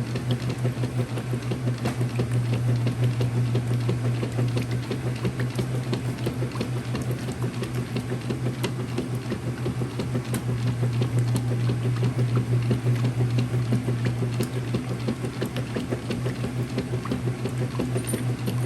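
Early-2000s Whirlpool direct drive top-load washer running on its wash cycle: a steady low hum with water splashing and sloshing in the porcelain tub.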